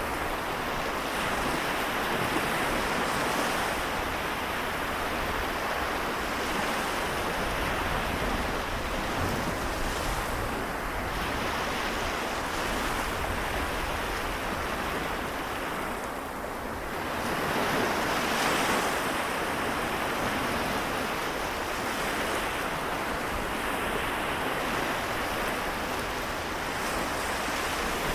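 Sea waves washing in as a continuous surf wash, easing briefly about two-thirds of the way through before the next wave swells in.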